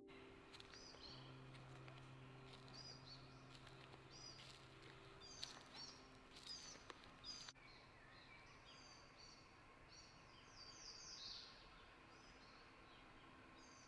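Faint songbirds chirping and singing, many short high calls and trills, over a quiet outdoor hush.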